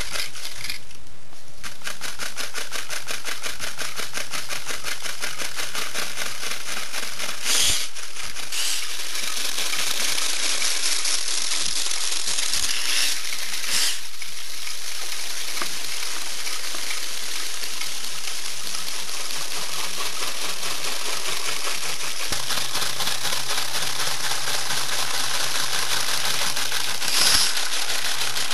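Scale model car wash running: a steady hiss with a rapid, fine mechanical ticking throughout, swelling briefly a few times.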